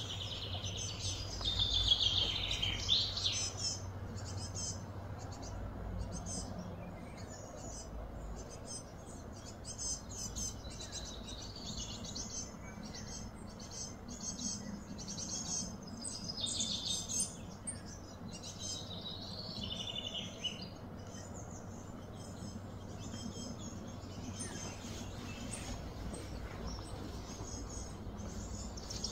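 Outdoor ambience of birds chirping and calling in repeated short trills, over a steady low background hum.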